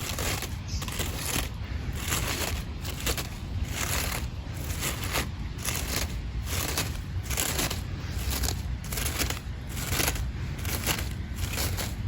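Rhythmic crackling, crunching strokes, a little more than one a second, each a short burst of dry rustling noise.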